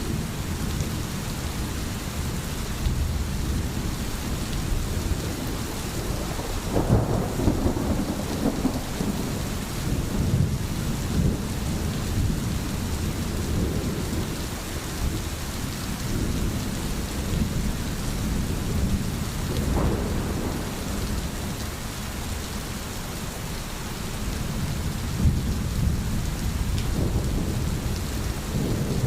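Steady rain with rolling thunder. The thunder swells about seven seconds in, again around twenty seconds, and near the end.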